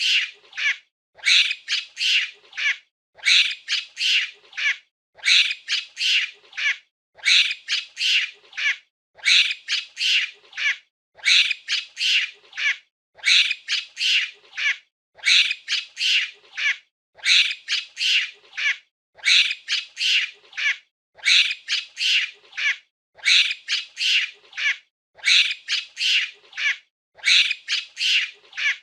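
Monkey calls: bursts of four or five short, high-pitched squawking calls, repeating evenly about every two seconds like a looped recording.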